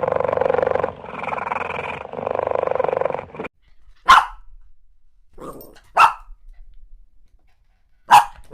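A dog growling in three long stretches, then barking sharply four times.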